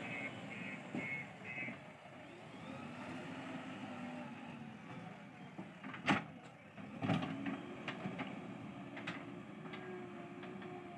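JCB 3DX backhoe loader's diesel engine working, its pitch rising and falling. A reversing alarm beeps five times in the first two seconds, and two sharp loud knocks come about six and seven seconds in.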